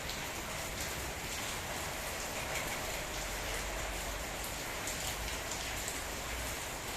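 Steady rain falling in a downpour, with scattered drop hits.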